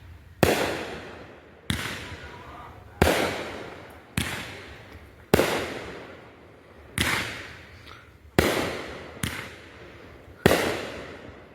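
Consumer aerial fireworks bursting overhead: nine sharp booms, about one every second or so, each trailing off before the next.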